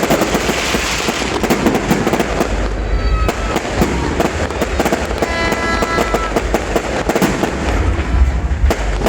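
Aerial fireworks going off in a dense, continuous barrage of sharp cracks and crackles over a low rumble. A brief steady pitched tone sounds about five seconds in.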